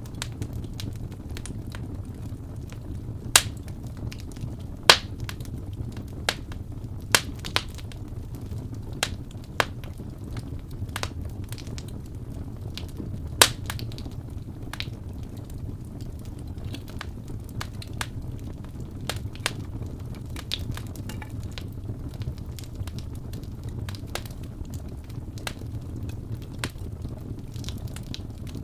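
Wood fire crackling, with irregular sharp pops and snaps over a steady low rumble of burning; the loudest pops come at about three and a half, five and thirteen and a half seconds in.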